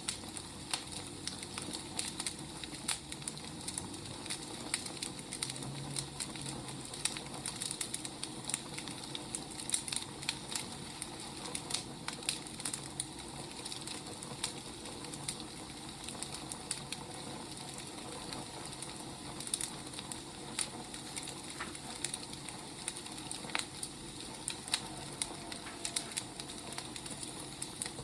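Burning firewood crackling: irregular sharp pops and snaps over a steady hiss.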